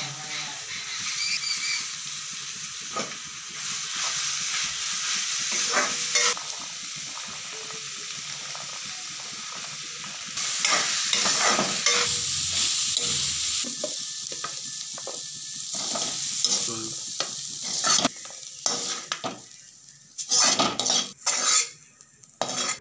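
Potato and cabbage sizzling in hot oil in an aluminium kadhai while a metal spatula stirs it, scraping and knocking against the pan. Near the end the sizzle dies down, leaving separate spatula scrapes and clinks on the metal.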